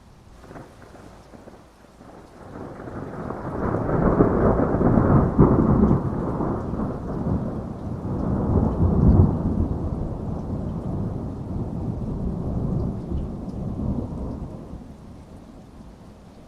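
A long roll of thunder over steady heavy rain. The rumble builds about two seconds in, swells twice, and dies away near the end.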